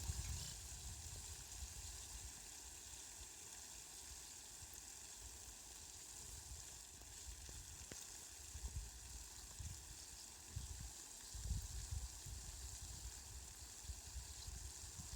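Steady rain falling, a soft even hiss, with low rumbles swelling and fading now and then, the strongest a little past the middle.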